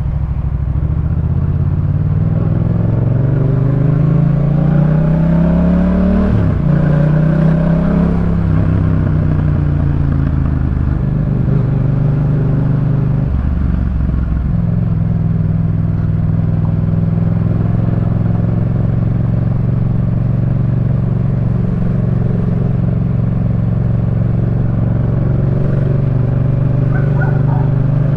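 Yamaha MT-07's parallel-twin engine through a Jeskap K4 full exhaust, ridden: it pulls up through the revs with a gear change about six seconds in, climbs again, then settles to a steady cruising note for the rest.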